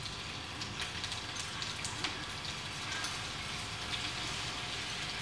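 Chicken wings sizzling in hot oil in a frying pan as a fish-sauce and sugar mixture is poured over them: a steady hiss with scattered small pops and crackles.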